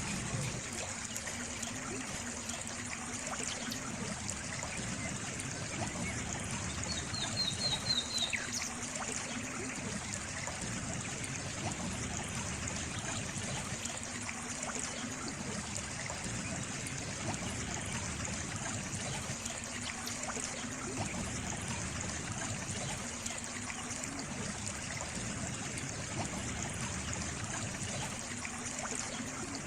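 Water trickling and flowing steadily, like a small stream. A short run of high chirps comes about seven seconds in.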